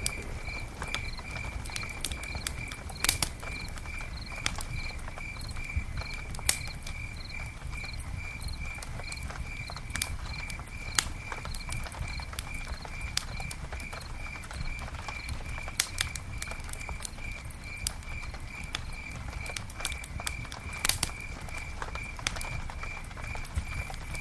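Campfire crackling, with sharp pops every few seconds over a low rumble, and a steady high chirp repeating about three times a second.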